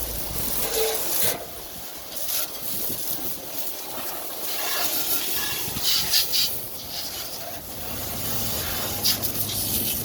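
Jet of water spraying onto a vehicle being washed: a steady hiss with several short louder surges as the spray moves across the body.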